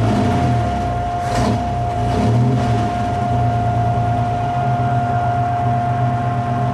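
Early-1960s GMC V6 gasoline engine idling steadily with its air cleaner off. A steady whine sits above the engine note.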